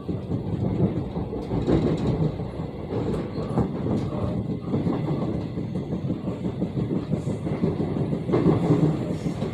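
Gyeongchun Line electric commuter train running at speed, heard from inside the car: a steady rumble of wheels on rail with continual thumping. The thumping comes from wheels that have not been re-trued.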